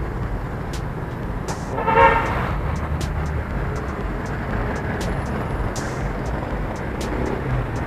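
Steady low rumble of a generator running, with one short horn toot about two seconds in.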